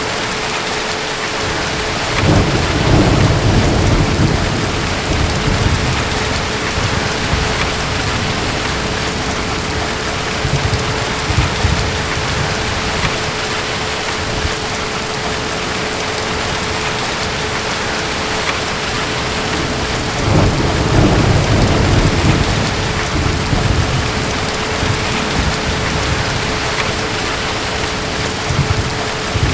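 Steady heavy rain, with distant thunder rolling in twice, a few seconds in and again around two-thirds of the way through, each a long low rumble lasting several seconds.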